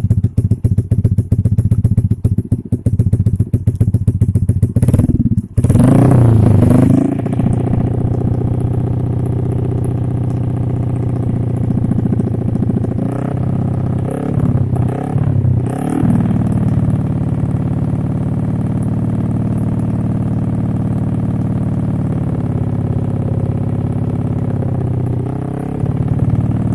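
Honda Grand single-cylinder four-stroke motorcycle engine, fitted with an oversize Jupiter piston, running through an RCB Purba aftermarket exhaust. It idles choppily at first, revs up about five seconds in, then settles to a steady idle. Short throttle blips come around the middle and again near the end.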